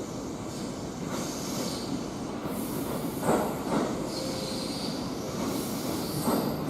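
Train rolling slowly along the tracks, its steel wheels squealing and knocking a few times over the rail joints.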